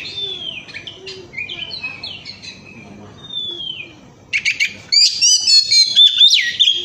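Oriental magpie-robin (kacer) singing a varied song of quick whistled notes and trills. It is softer through the middle and loud and rapid again from about five seconds in.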